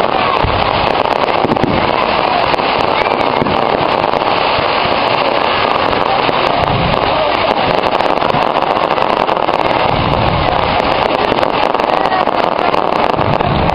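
Aerial fireworks display: a dense, continuous crackle with several deep booms scattered through, over crowd noise.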